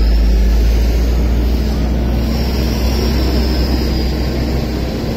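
Car engine idling close by, a steady low rumble, with wind buffeting the microphone.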